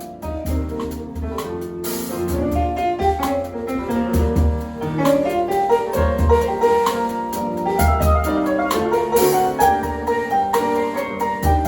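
Jazz band playing live: piano chords and melodic lines over a drum kit, with a steady low bass pulse and regular cymbal and drum hits.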